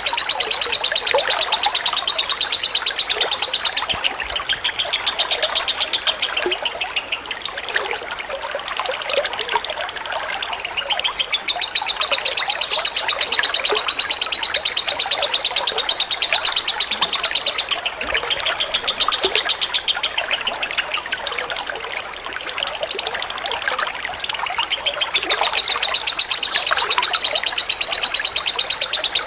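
Lovebird singing in its long, very rapid chattering trill (the 'ngekek' song), with trickling water beneath it. The trill is unbroken, easing briefly twice.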